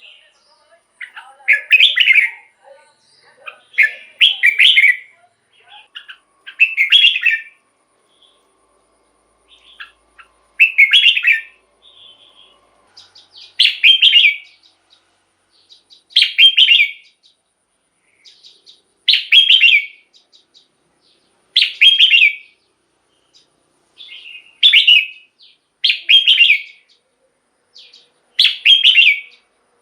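Red-whiskered bulbul singing: a run of short, bright song phrases repeated about every two to three seconds, with a brief pause in the middle.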